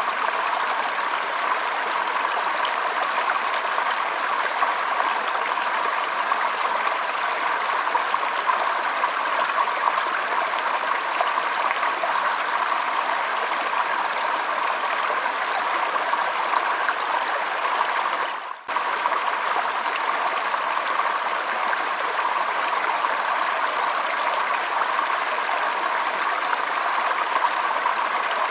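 Shallow stream flowing and trickling in a steady, even rush of water. The sound dips briefly once, about two-thirds of the way through.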